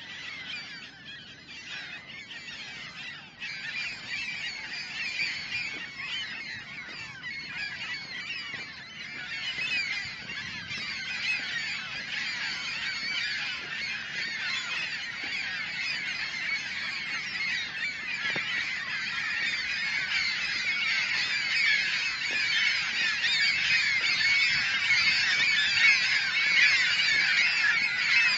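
A large flock of gulls calling, with many short cries overlapping into a constant din that grows louder and denser toward the end.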